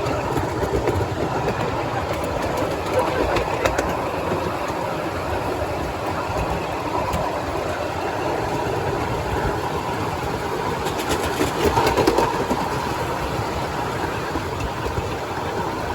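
Train running along the track: a steady rumble of wheels on rails, with a few sharper clicks about four seconds in and again near twelve seconds.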